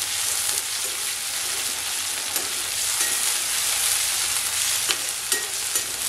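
Onions, green chillies and curry leaves sizzling in hot sesame oil in an Indolium aluminium-alloy kadai, with a slotted steel spoon scraping through them and clinking against the pan now and then.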